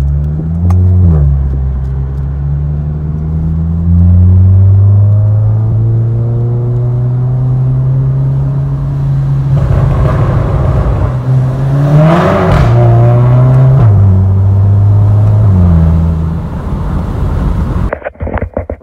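Volkswagen Golf GTI's turbocharged four-cylinder engine under hard acceleration, heard from inside the cabin. The engine note climbs with the revs and drops at each gear change, with a loud rushing noise near the middle.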